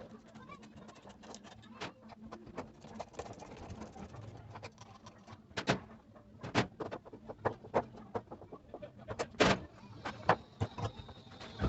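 Irregular knocks and clatter of hand tools and metal parts while a Brastemp washing machine's mechanism is taken apart, the loudest knocks about halfway through and near the end.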